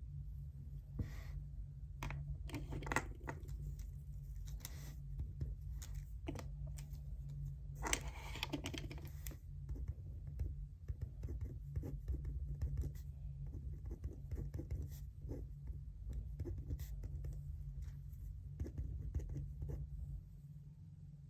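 Sounds of writing at a desk: a pen scratching on paper with scattered taps and clicks, and a longer rustling scratch about eight seconds in, over a steady low hum.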